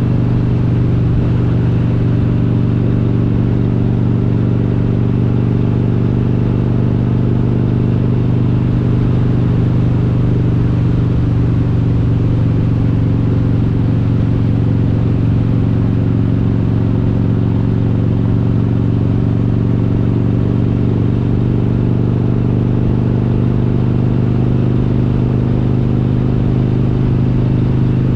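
Harley-Davidson Road King's S&S 95-cubic-inch V-twin with Super Stock heads running at a steady cruise: one constant low engine note with no shifting or revving.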